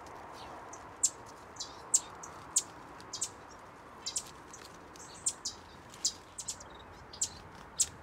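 Small aviary birds chirping: short, high chirps at irregular intervals, about two a second, over a faint steady hiss.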